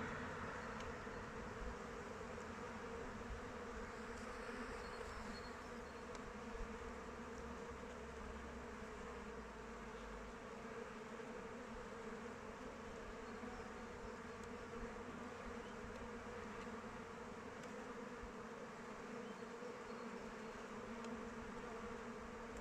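Many honeybees flying around their hive, a steady buzzing hum.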